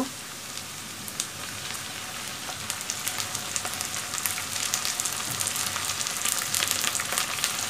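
Chopped onions and a dollop of ginger-garlic paste frying in hot oil in a pan: a steady crackling sizzle that grows gradually louder.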